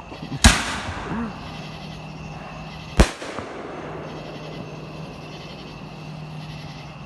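Two loud firework bangs about two and a half seconds apart. The first trails off in a brief crackle.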